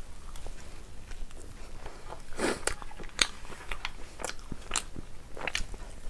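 A person chewing and biting mouthfuls of naan with mutton curry, close to the microphone: irregular short clicks of chewing, with a louder bite about two and a half seconds in.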